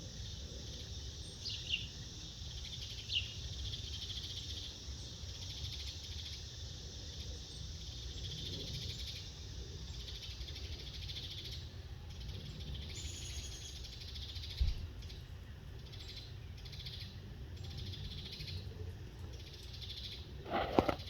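Outdoor ambience with a steady high insect hum, two short falling bird chirps about two and three seconds in, a single sharp click past the middle and a brief louder clatter near the end.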